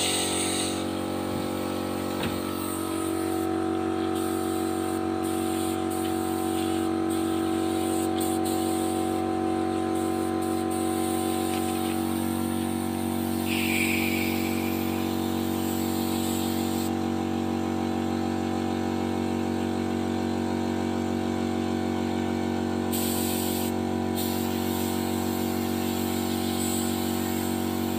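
Paint spray gun hissing in on-and-off spells as it is triggered, over the steady hum of the air compressor driving it.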